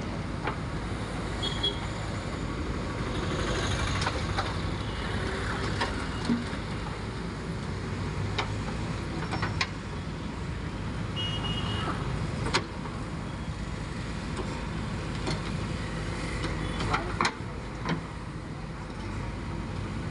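Diesel engine of a backhoe loader working steadily, a low drone with scattered sharp knocks and clanks over it.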